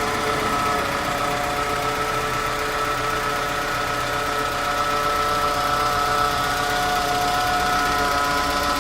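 Peugeot 206 1.1 petrol engine running with a steady whine from its power steering pump, an abnormal, unpleasant noise that points to a fault in the pump.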